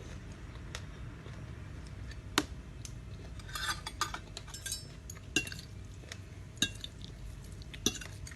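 Eating utensils clinking against a dish: a handful of single sharp clinks, with a quicker flurry of small clinks and scrapes about halfway through.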